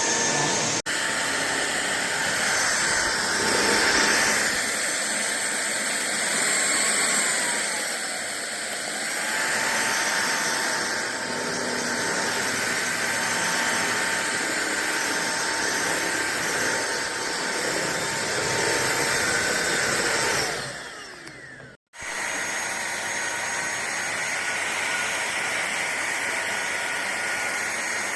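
Fieety cordless stick vacuum cleaner running, a steady rush of air with a thin motor whine whose level and pitch shift now and then. About three quarters of the way through, it dies away for a moment, then starts again abruptly.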